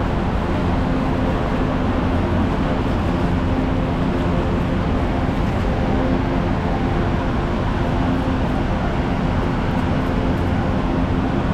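Steady machinery drone with a low, even hum that holds unchanged throughout.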